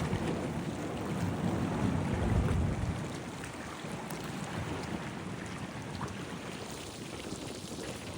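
Wind gusting and buffeting the microphone, a rough low rumble that is strongest for the first few seconds and then eases.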